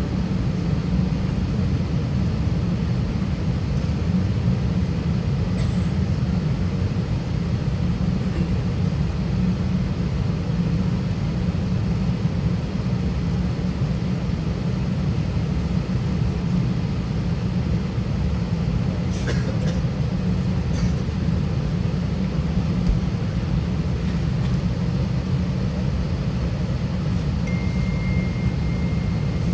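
Steady low rumble inside the cabin of an Airbus A320 moving on the ground, with engines and airframe running at an even level. A brief click comes about two-thirds of the way in, and a faint thin high tone sounds over the last two seconds.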